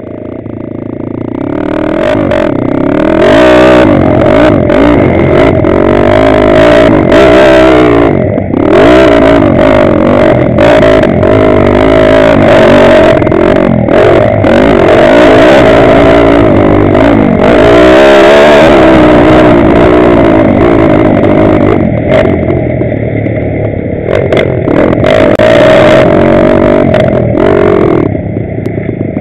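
Pitsterpro 160cc pit bike's single-cylinder four-stroke engine being ridden hard on a motocross track, revving up and falling back over and over as the throttle opens and closes, with some clatter. It eases off briefly about eight seconds in and again near the end.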